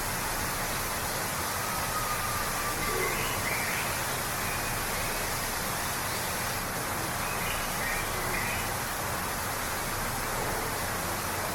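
Waterfall rushing steadily, with a few faint bird chirps over the water noise, once about three seconds in and a short cluster about two-thirds of the way through.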